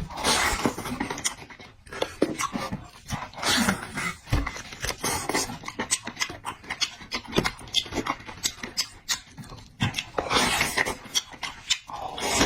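Close-up eating sounds: wet chewing and lip smacking made of many irregular small clicks, with a few longer hissing bursts.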